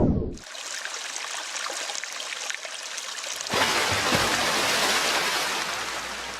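Storm water rushing: a steady hiss with scattered patters, then a louder, fuller rush about three and a half seconds in that slowly fades.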